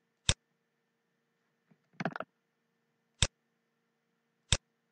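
Computer mouse clicking: single sharp clicks spaced about a second or more apart, with a quick run of two or three clicks about two seconds in.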